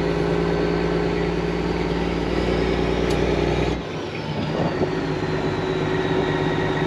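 Semi truck's diesel engine running steadily under way. About four seconds in, the deep low rumble suddenly drops away and the engine note changes.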